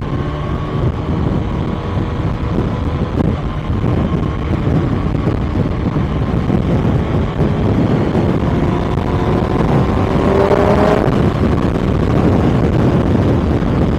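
Kawasaki ZX-6R inline-four engine running on the move, with wind noise on the microphone. Its pitch rises gradually, then drops about eleven seconds in and carries on steadily.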